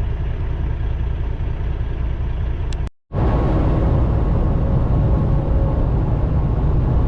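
Semi-truck engine and road noise heard inside the cab: a steady low rumble. It cuts out for an instant about three seconds in, then resumes a little fuller, with a faint steady whine over it as the truck gets moving.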